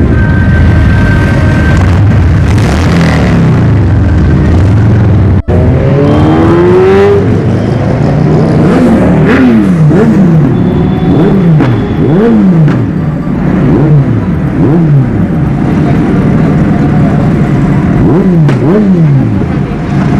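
Superbike engines running steadily. After a brief cut about five seconds in, an engine is revved hard and then blipped up and down over and over, roughly once a second.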